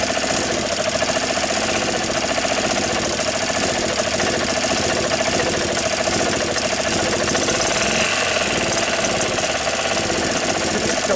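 Gas engine of a 1993 Club Car golf cart running steadily with an even, rapid pulse, just brought back to life after its dirt-clogged carburetor jet was cleaned.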